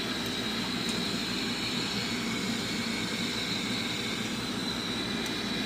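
Furnace draft inducer motor running steadily, with a faint high whine over the motor noise. The pressure switch is closed, but the bad Honeywell SmartValve is not opening, so no burner lights.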